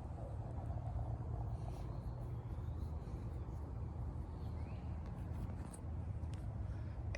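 Outdoor ambience: a steady low rumble, with a few faint, short rising bird chirps about four and a half seconds in.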